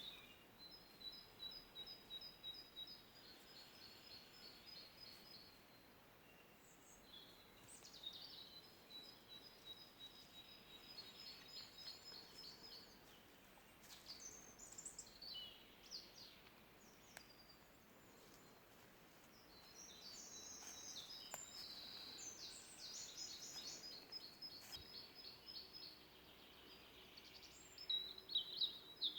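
Faint songbirds singing: repeated series of rapid high trilled notes, several songs in turn, with a louder burst of calls near the end.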